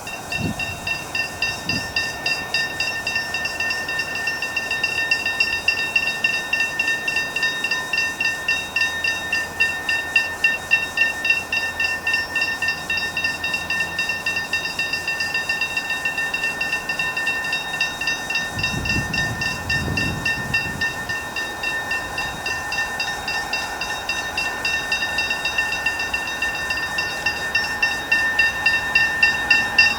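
Freight train wagons rolling past, with a steady high-pitched squeal that pulses in a rapid, even rhythm. A brief low rumble comes about two-thirds of the way through.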